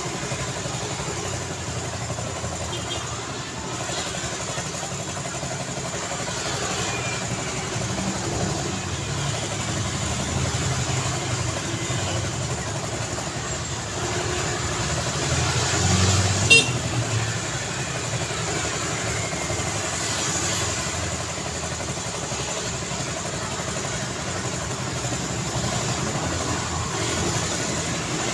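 Road traffic ambience: the steady engine and tyre noise of passing vehicles. A louder vehicle swells past around the middle, with a brief sharp sound about sixteen seconds in.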